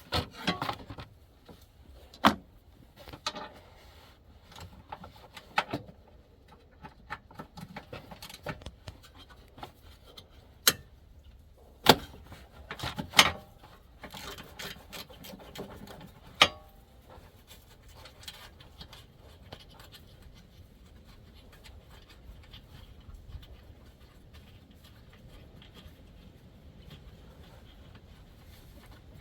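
Metal hand tools, a 12 mm socket and wrench, clinking, knocking and scraping against metal while the battery tray bolts are worked loose. A handful of sharp clinks fall in the first half, spread unevenly, and the later part holds only quieter rattling and handling.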